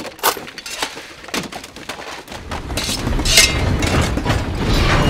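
Train passing directly overhead: a few sharp metallic clicks and knocks at first, then from about two seconds in a loud rumble with wheels clattering over the rails.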